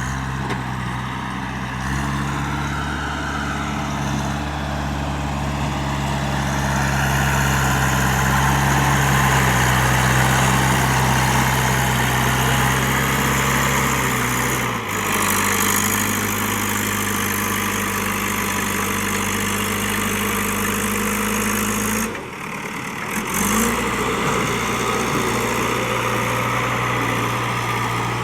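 JCB 3DX backhoe loader's diesel engine running steadily, its pitch stepping up early on and down about halfway, with a brief drop in level about three-quarters of the way through.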